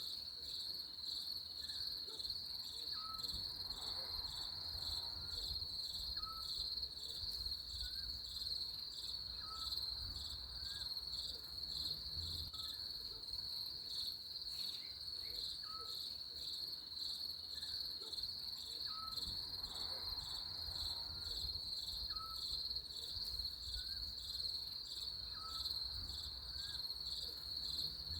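Steady chorus of insects trilling in a high, quickly pulsing drone, with short high chirps recurring every second or two and a faint low rumble beneath.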